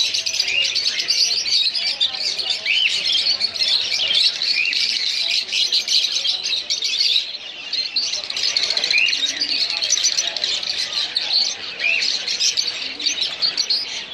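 A flock of budgerigars in an aviary chattering, with constant chirping and warbling and a brief lull about halfway through.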